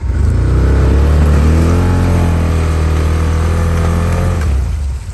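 ATV engine revving hard, rising in pitch over the first second, holding high and then dropping off about four and a half seconds in. The quad is straining without pushing through the deep snow and mud.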